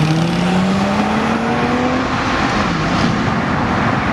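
Car engine revving hard, its pitch climbing steadily for about two seconds, dropping, then starting to climb again near the end, over a loud rushing noise.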